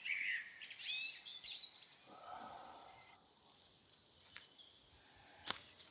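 Small birds chirping and warbling outdoors, strongest in the first second or so and then fading to a faint background with a brief rapid trill after the middle. A single sharp click sounds near the end.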